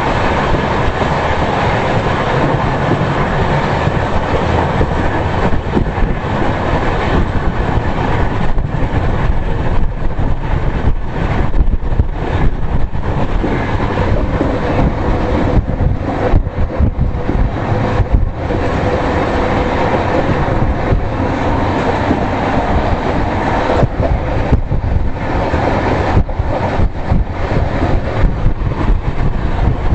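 Express passenger train running along the track: a loud, steady rumble of wheels and coach, with scattered clicks from the wheels passing over rail joints.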